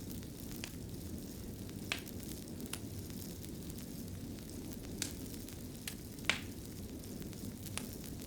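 Wood fire burning in a fireplace: a steady low rumble of flames with irregular sharp crackles and pops, the loudest a little past six seconds in.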